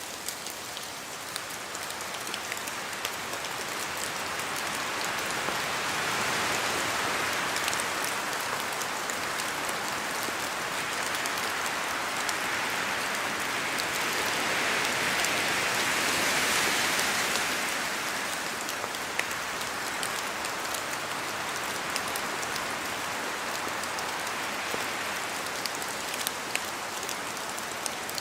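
Steady rain in a forest, with scattered drops ticking as they fall from the trees. The rush swells louder twice, about six seconds in and again around fifteen seconds in, as wind moves through the trees.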